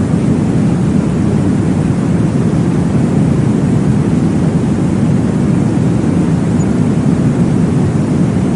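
Steady, deep whooshing noise from a baby-sleep white-noise track, weighted toward the low end with little hiss, running evenly without a break.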